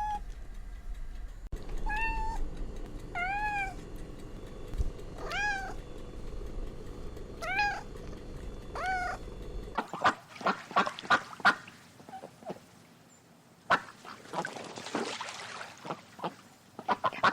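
Animal calls: six arching pitched calls spaced about one to two seconds apart, then, about halfway through, runs of short, rapid, harsh calls.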